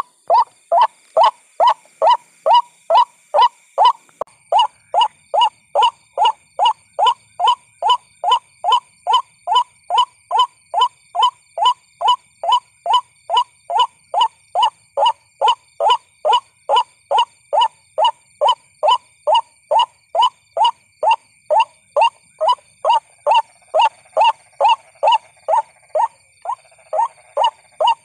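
White-breasted waterhen calling: one short, downward-sliding note repeated very evenly, about twice a second. This is the monotonous repeated call used as a lure recording to draw waterhens in.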